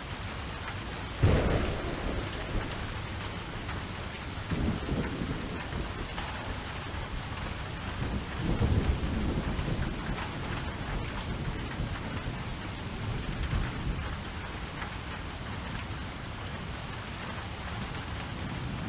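Recorded thunderstorm ambience: steady heavy rain, with a sharp thunderclap about a second in followed by several rolls of low thunder.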